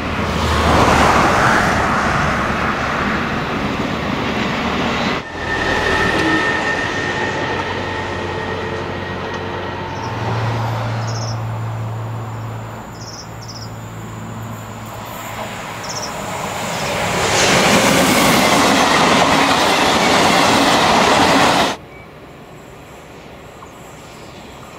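Electric trains running past on the rails, in several separate pass-bys, with the loud rolling noise of wheels on track and a steady hum from the traction equipment. The sound changes abruptly about five seconds in and again near the end, where it drops to a quieter approaching train.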